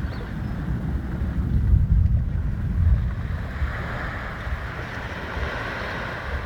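Wind buffeting the microphone in ragged low gusts, loudest about two seconds in, over a steady hiss that swells in the second half.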